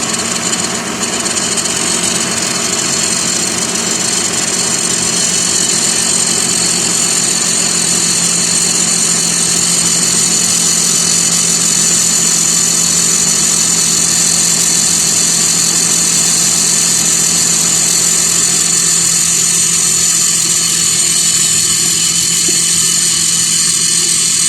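2006 Lexus ES330's 3.3-litre 3MZ-FE V6 running, with a steady high-pitched metal-on-metal noise from the alternator area. The cause turns out to be a wrong-size upper alternator bracket bolt that was not fully tightened.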